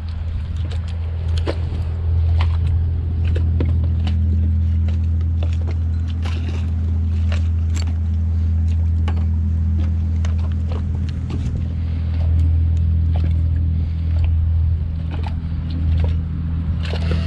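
A steady low engine drone, with scattered knocks and clicks over it.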